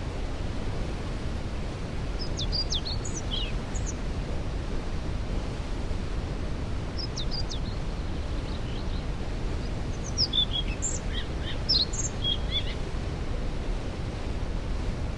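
Steady low rush of a waterfall, with songbirds singing short high chirping phrases over it three times, the longest near the end.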